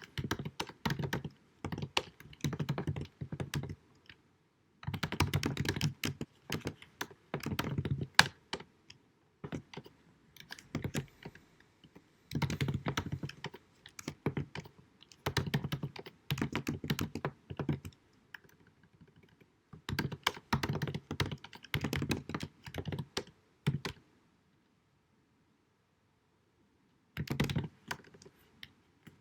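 Computer keyboard typing in bursts of rapid keystrokes broken by short pauses, stopping for about three seconds near the end and then starting again. Recorded at deliberately low sound quality.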